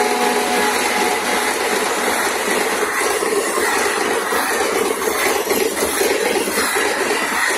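Passenger train coaches rolling past at speed, a steady rumble and rattle of wheels on the rails.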